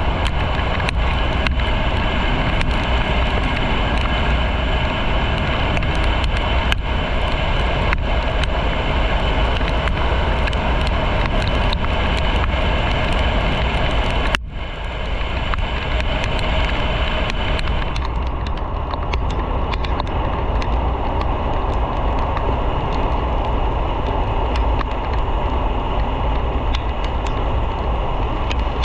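Motorcycle riding along a road, heard from a camera on the bike or helmet: steady wind rush over the microphone mixed with engine and road noise. The sound cuts out for an instant about halfway through and turns duller a few seconds later.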